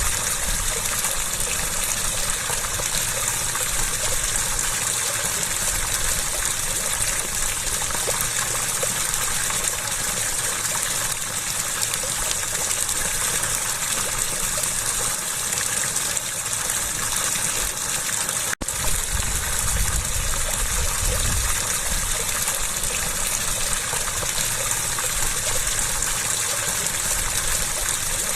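Running water gushing steadily, a dense even rush with most of its energy in the higher range. It breaks off for an instant about two-thirds of the way in, then carries on unchanged.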